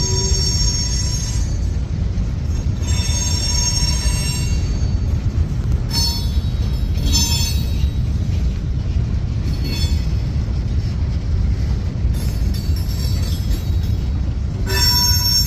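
Freight train boxcars rolling past with a steady, heavy low rumble of wheels on rail. High-pitched wheel squeals come and go several times: at the start, around three to five seconds, briefly twice around six to seven seconds, and again from about twelve seconds to the end.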